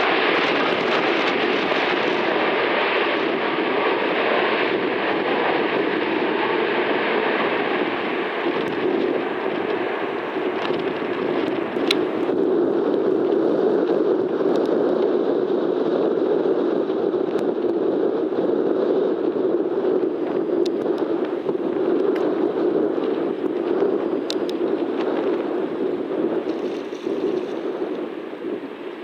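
Jet airliner roar mixed with strong wind buffeting the microphone; the brighter part of the roar falls away about twelve seconds in, leaving a steady rush of wind.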